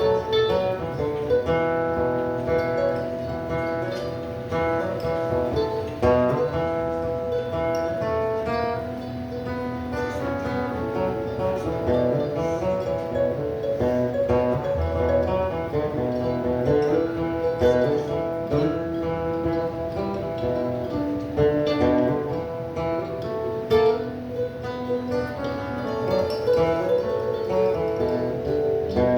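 Acoustic guitar playing an instrumental passage of plucked notes, with no singing.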